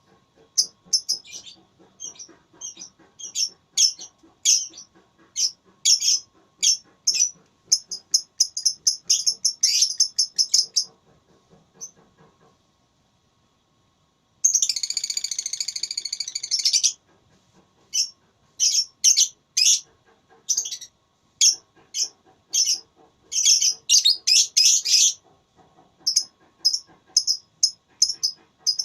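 Lovebird chattering in quick runs of shrill chirps. Just before halfway it breaks off for about two seconds, then it gives one unbroken trill of about two and a half seconds, the long chatter keepers call ngekek, and the runs of chirps resume.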